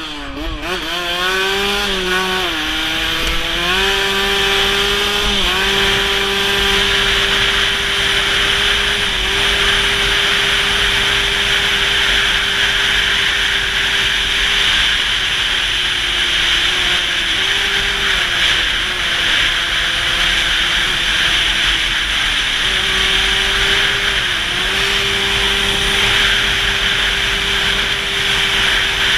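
Motorcycle engine accelerating up through several gears, its pitch climbing and stepping down at each shift, then running at steady cruising revs with two brief dips. Heavy wind rush on the microphone throughout.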